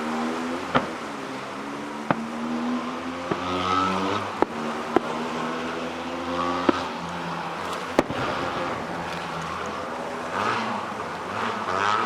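Fireworks shells bursting overhead in sharp bangs about every one to two seconds, over a continuous rumble and crackle from the display.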